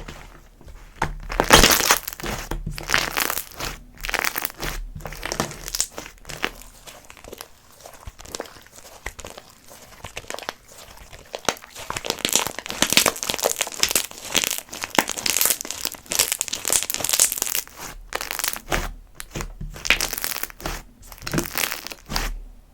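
Slime being squished and pressed by hand, making dense, irregular crackling and popping with occasional louder crunches.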